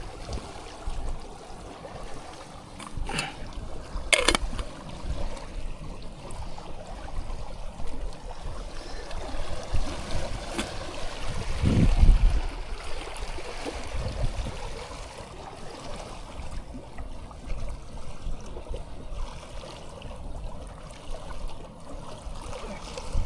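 Flowing river water. Two sharp knocks come about three and four seconds in, and a loud low rumble follows near the middle.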